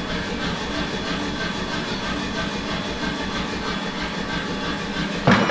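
Steady hum of workshop machinery running, then a single loud metal strike about five seconds in.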